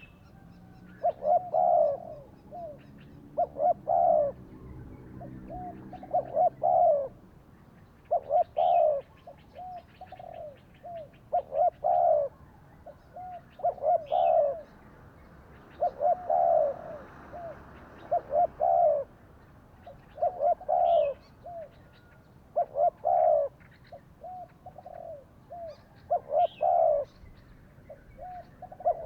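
Spotted doves cooing: short phrases of two or three low coos repeat about every couple of seconds throughout. Faint high chirps from small birds come in between.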